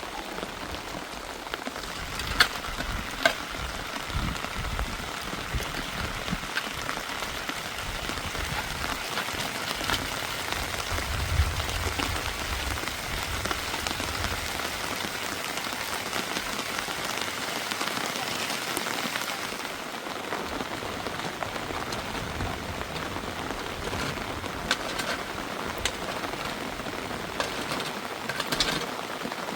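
Heavy rain falling steadily, a dense hiss of drops with a few sharper ticks, somewhat louder through the middle.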